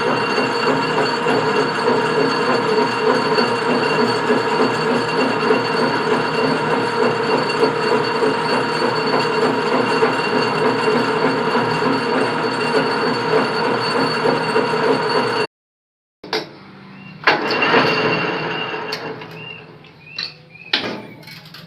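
Metal lathe running steadily while turning a motorcycle primary gear. After a sudden cut, a few sharp knocks and a sound that fades away.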